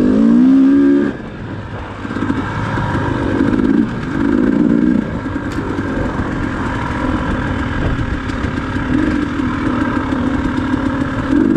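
Dirt bike engine running on a loose trail ride, revs climbing in the first second, then dropping back and picking up again in several short bursts of throttle.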